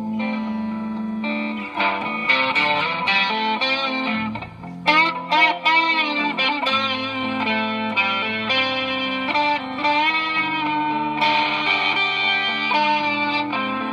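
Gretsch G3161 hollow-body electric guitar played through a Fender Excelsior tube amp, picked up by an iPad's built-in microphone: held notes and chords, with the pitch bending and wavering about five seconds in.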